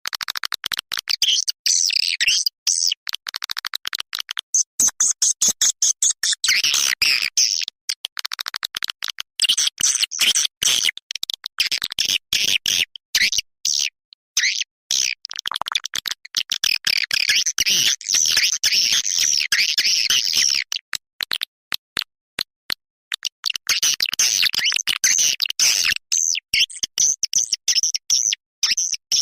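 Swiftlet lure call: rapid trains of high chirping twitters in stretches of several seconds with short breaks, a recorded call played to attract edible-nest swiftlets to a nesting house.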